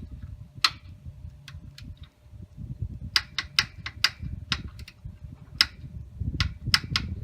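Ratcheting torque wrench, set to 35 pounds, clicking in sharp irregular strokes as the engine mounting bolt is tightened, with most of the clicks coming in quick runs from about three seconds in, over the low rubbing and knocking of hands and tool on the bike.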